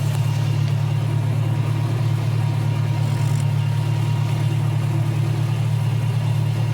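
Zoo ride train's engine running steadily with a low, even drone.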